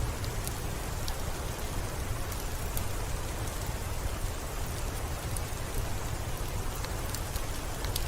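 Steady heavy rain, an even hiss over a low rumble, with scattered sharp little ticks of drops striking.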